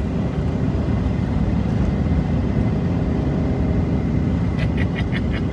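Truck driving at highway speed, heard from inside the cab: a steady low engine and road rumble.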